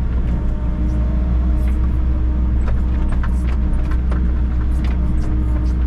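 Volvo EC60E mini excavator's diesel engine running steadily, with scattered short clicks.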